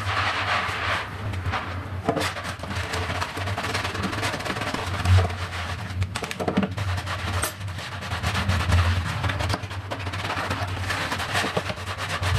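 Scattered clicks and knocks of household items being handled, over a steady low hum.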